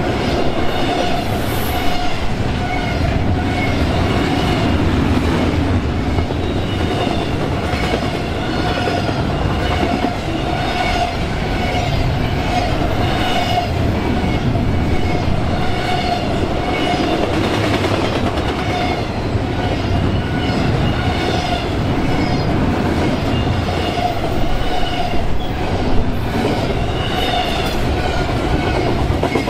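Train rolling past at steady speed, its car wheels clicking over rail joints in a repeating rhythm about once a second, over a continuous rumble.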